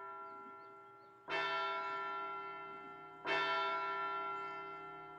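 A bell tolling, one stroke about every two seconds, each stroke ringing on and fading before the next. It rings out as a signal that someone is late.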